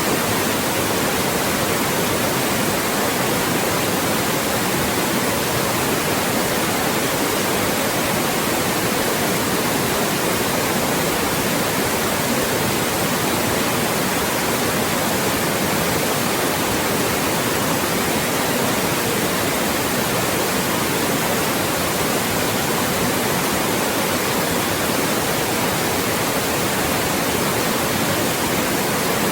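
Loud, steady white noise: an even, unchanging hiss spread across all pitches from low to very high.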